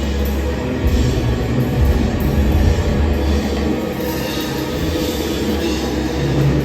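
Rock band playing live: drum kit over a heavy, pulsing bass line, with no singing heard.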